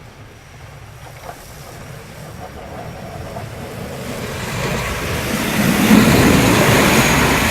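Snowplow truck passing and throwing snow off its blade: a rushing noise mixed with its engine, building steadily to its loudest about six seconds in.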